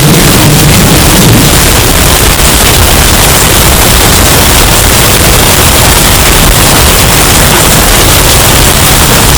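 Hurricane wind sound effect, heavily bass-boosted and clipped into a steady, very loud, harsh distorted noise.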